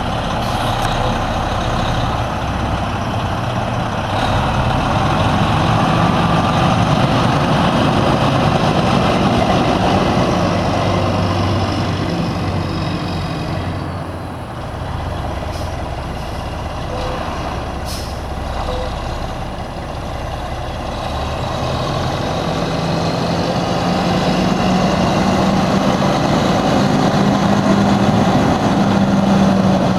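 Detroit Diesel Series 60 14.0-litre diesel engine of a Freightliner semi truck running, its pitch rising and falling with engine speed: it eases off about halfway through, then climbs steadily toward the end.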